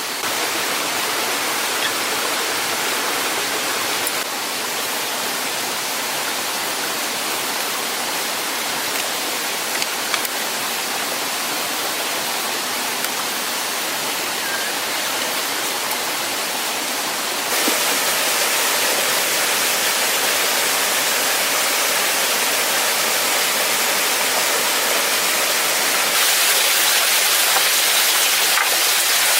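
Steady rushing water, a dense even hiss, that jumps abruptly in loudness a few times.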